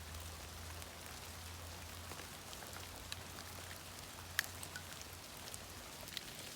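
Steady rain falling, with scattered sharp ticks of drops striking nearby, one louder tick a little past halfway.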